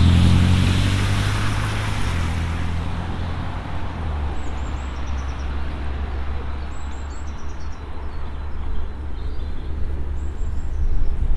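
A motor vehicle passing close by and fading away over the first few seconds, then a steady hum of road traffic. A few short, high bird chirps come through over the traffic.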